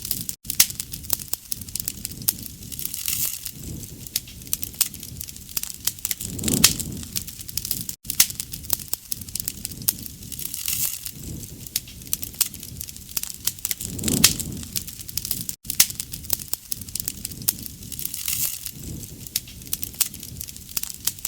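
A wood bonfire crackling, with dense sharp pops and snaps. Under them a low rush of flame swells about every four seconds.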